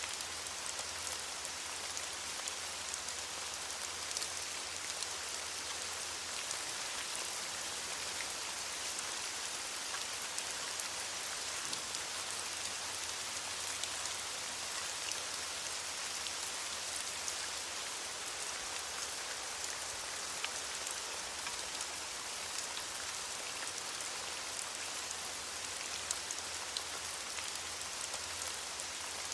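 Steady rain falling on leaves: a dense, even hiss sprinkled with the small ticks of single drops.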